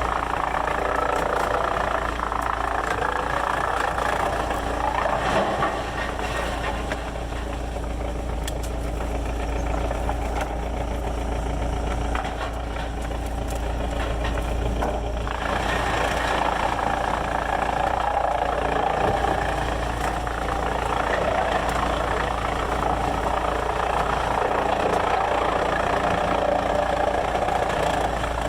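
Sawmill machinery running steadily. Its mid-pitched noise eases off for several seconds and swells back about halfway through.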